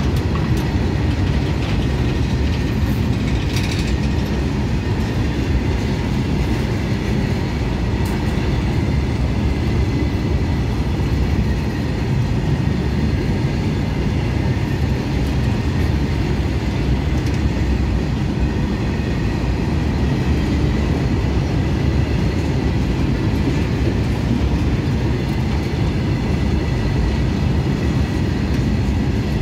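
Goods train of covered wagons rolling past close by: a steady heavy rumble of steel wheels on the rails, with a faint high ringing tone above it and a few sharper clicks over the rail joints.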